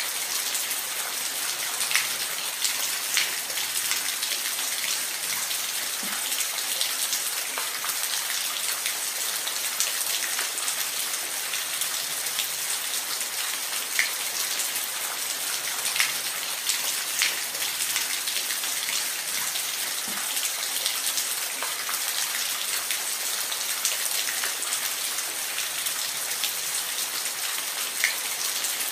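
Falling water hissing steadily, with scattered sharp drips and splashes standing out every second or two.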